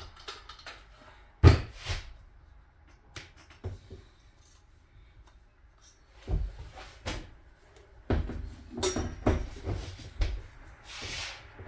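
Metal outboard parts knocking and clicking as the gear housing is pushed on over the drive shaft tube and water tube, a series of irregular knocks with one sharp knock about a second and a half in the loudest.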